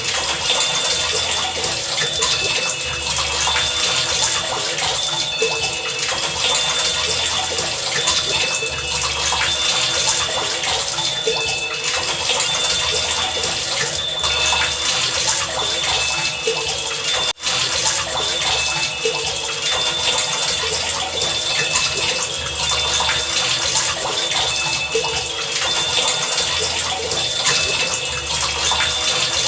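Heavy rain falling, a steady dense hiss, with a low pulse repeating roughly every two seconds and faint short high tones. It cuts out for a moment about seventeen seconds in.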